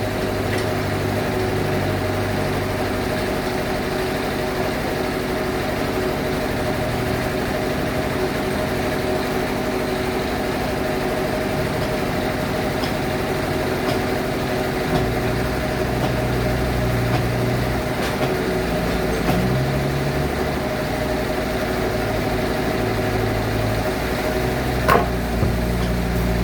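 Sawmill bandsaw machinery running with a steady mechanical drone and hum, its low note shifting now and then. There are a couple of sharp knocks near the end.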